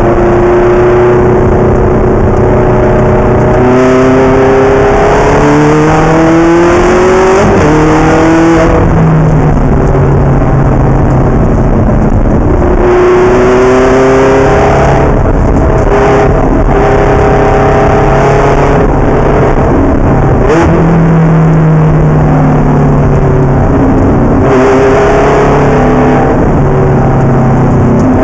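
Ferrari race car engine at full throttle, climbing in pitch through each gear and dropping sharply at several gear changes, over loud, steady road and wind noise.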